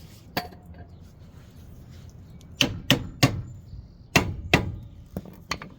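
Sharp metal-on-metal clanks and knocks from hand tools: one about half a second in, then two quick groups of three louder strikes, with a few lighter taps near the end.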